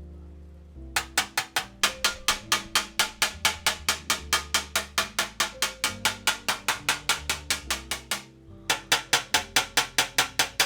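Rapid light hammer taps on a brass baritone bell, about four or five a second in two runs with a short pause about eight seconds in, knocking out sharp dents. Background music plays underneath.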